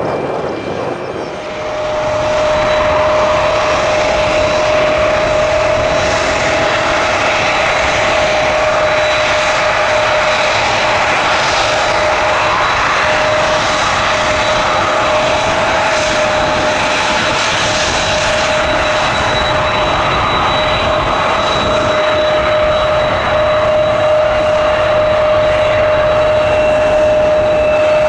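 Airliner engines running loudly and steadily, with a steady whine over the engine rush; the sound swells over the first two seconds and then holds.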